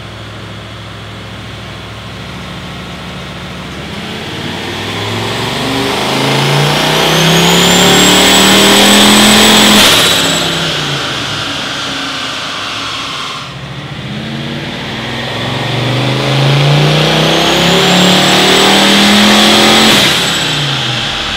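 Turbocharged, BTA-built stroked 454 ci LSX V8 making two full-throttle pulls under load on a chassis dyno. Each time the engine note climbs steadily with a high whistle rising alongside, then cuts off sharply at the top and winds down in pitch.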